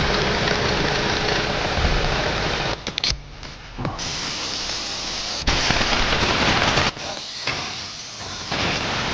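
Loud steady hiss that cuts out and back in abruptly several times: about three seconds in, again near four, five and a half, seven and eight and a half seconds in.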